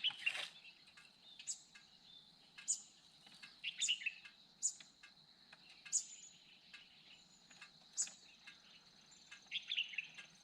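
Outdoor birdsong and insects: short high bird chirps about once a second over a steady insect drone, joined by a second, higher insect tone near the end.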